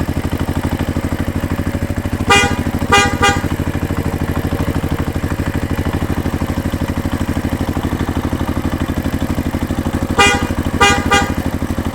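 Tractor engine running steadily with an even pulse, and a horn honking in short toots: three near the start and three more near the end.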